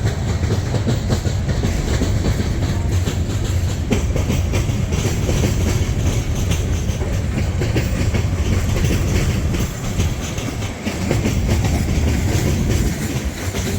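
Freight train cars rolling past at close range, a steady loud rumble with the wheels clacking over rail joints.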